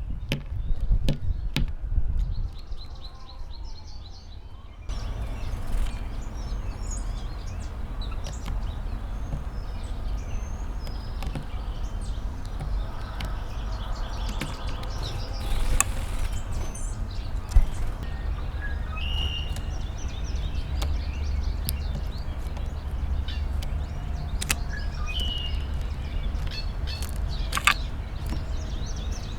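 Outdoor ambience: a steady low rumble with scattered sharp clicks and a few short, high bird chirps, two of them clearer about two-thirds of the way through and near the end.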